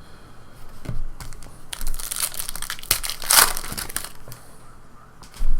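Trading-card pack wrappers crinkling and rustling as packs are handled and torn open, with a couple of louder rustles in the middle and a short thump near the end.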